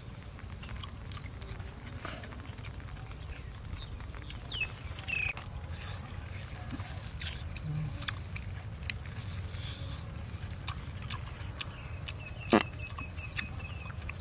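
Close-up eating sounds: a man biting and chewing meat off a cooked goat leg, with scattered wet smacking clicks, one sharper click near the end, over a steady low rumble.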